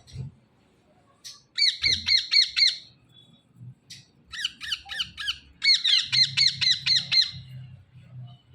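Green parrots calling in three runs of rapid, repeated squawks, about six calls a second, the last run the longest.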